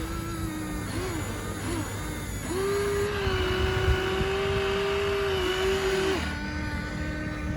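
Whine of a radio-controlled toy construction machine's electric motor and gearbox, wavering briefly in pitch at first, then holding a steady, slightly higher tone for several seconds before dropping lower near the end.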